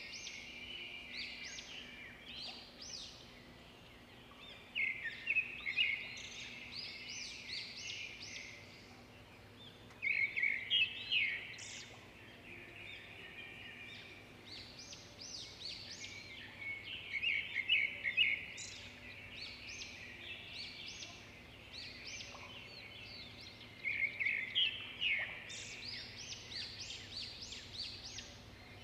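A small bird chirping and singing in quick trills that come in groups every few seconds, over a faint steady hum.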